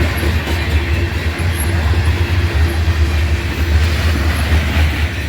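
Freight train's autorack cars rolling past on the rails: a steady, heavy rumble with wheel-on-rail noise.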